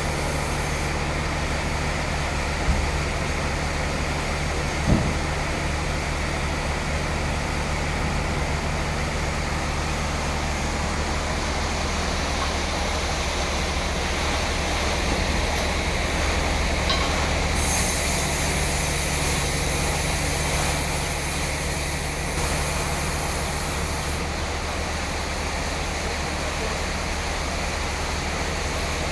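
Sawmill running steadily while sawing a teak log: a constant low drone under a broad hiss, with two short knocks a few seconds in and a brighter, hissier stretch past the middle.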